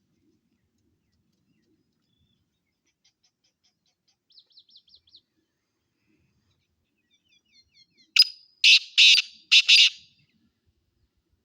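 Black francolin (black partridge) calling: faint quick chirps, then, about eight seconds in, a loud grating call of four or five rasping notes in quick succession.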